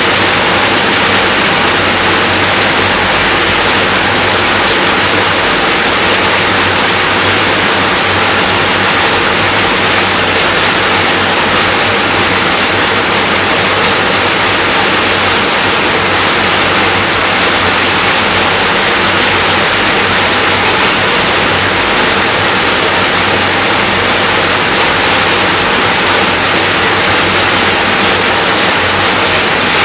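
Steady rainfall as a continuous, even hiss with no separate drops, thunder or changes.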